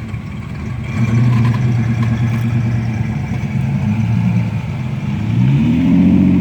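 A car engine running with a steady low note from about a second in, then revving up near the end.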